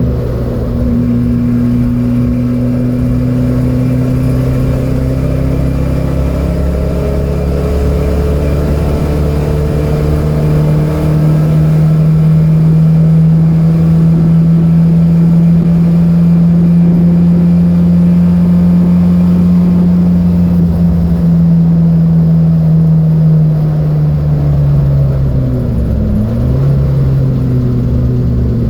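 Datsun B210's four-cylinder engine running hard at speed on a race track. Its pitch climbs slowly through the first ten seconds or so, holds high, then falls away, with a brief dip and recovery near the end.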